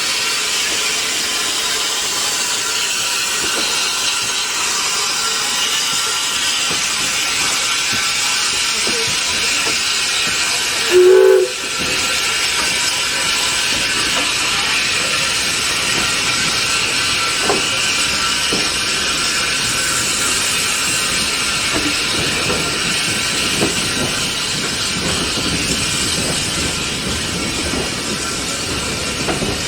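Steam locomotive hissing steadily, with one short steam whistle blast about eleven seconds in that is the loudest sound, and a few faint knocks later on.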